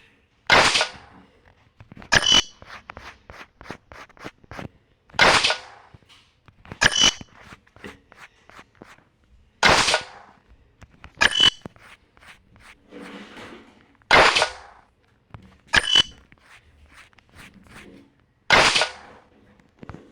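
Sharp metallic clanks that ring briefly, coming in pairs: a longer, broader crash, then a shorter, sharper clank with a clear ringing note under two seconds later. The pair repeats about every four and a half seconds, five times.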